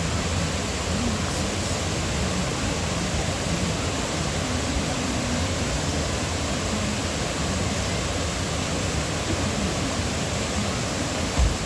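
Steady, even rush of a waterfall's falling water, with a brief low thump near the end.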